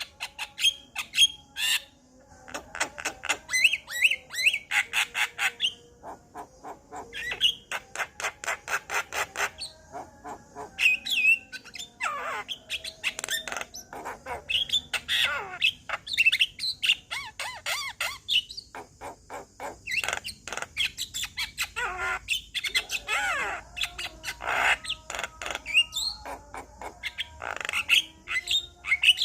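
Male Javan myna singing: a varied, continuous run of fast repeated chattering notes, harsh squawks and sweeping whistled glides.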